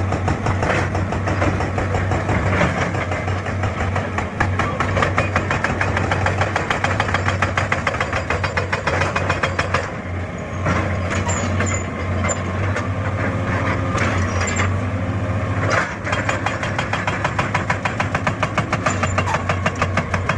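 Heavy diesel engine running steadily with a rapid, even pulsing rattle, its level dipping briefly about ten seconds in and again near sixteen seconds.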